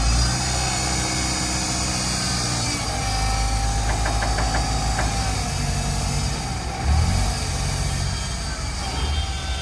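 Diesel engine of a heavy vehicle running steadily, with a faint steady whine in the middle and a brief surge in loudness about seven seconds in.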